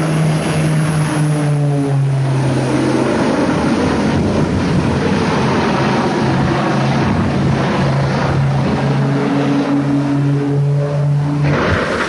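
Light propeller aircraft's piston engine droning steadily, with a steady low hum over a rushing noise.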